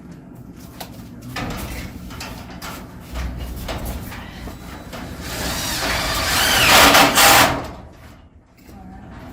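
Power drill driving a self-tapping screw through aluminium angle into a metal garage door panel, the sound building to its loudest about six to seven seconds in, then stopping suddenly.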